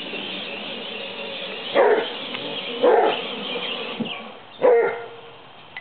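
Hound dog barking three times, about a second apart, over a steady background noise that fades after the third bark.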